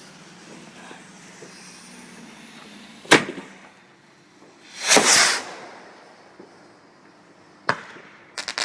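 Fireworks going off: a sharp bang about three seconds in, a longer rushing burst about five seconds in, then another bang and a quick run of crackles near the end.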